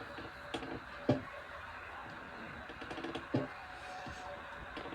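Small clicks and knocks of plastic clay-animal stamps being handled and pressed onto clay on a tabletop: three sharper knocks, about half a second, a second and three seconds in, with lighter clicks between, over a steady low hiss.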